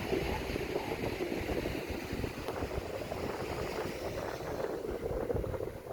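Wind buffeting the microphone: a steady, rough, fluttering rumble.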